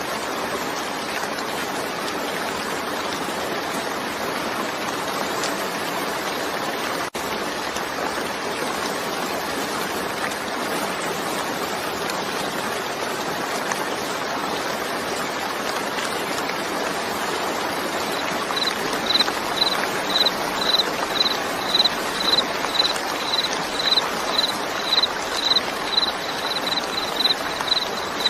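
Steady rain falling, a dense even hiss with a momentary dropout about seven seconds in. About two-thirds of the way through, a high chirp starts repeating about twice a second, quickening slightly near the end and louder than the rain.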